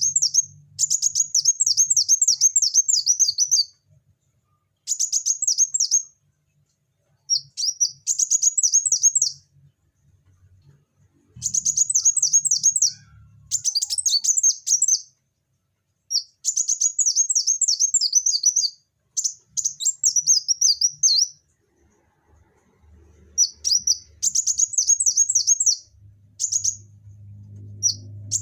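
A kolibri wulung sunbird singing vigorously: high-pitched, rapid twittering phrases of one to three seconds each, repeated with short pauses between.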